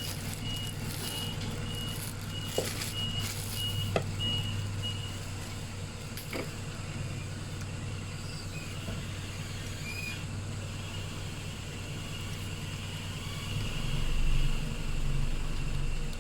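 Repeated short electronic beeps, about two a second, stopping about five seconds in, over a steady low hum, with a few sharp clicks; near the end the hum shifts lower and swells.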